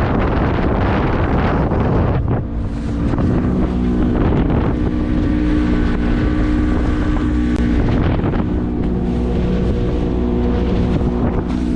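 Wind buffeting the microphone, then from about two seconds in a boat motor's steady running tone comes through the wind noise and holds steady.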